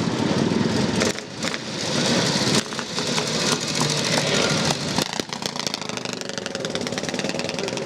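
Classic motorcycle engine being run up. It is blipped on the throttle a few times, with the sound dipping and rising, then settles to a steadier, rapidly pulsing run about five seconds in.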